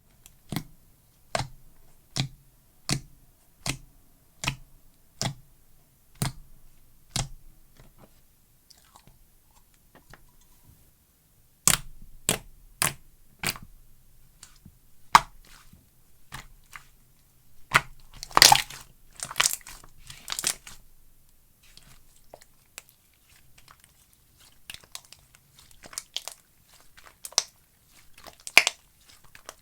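Slime squeezed and poked by hand, giving sharp click and pop sounds: a steady run of single clicks at first, then irregular ones with a short crackling flurry about two-thirds of the way through.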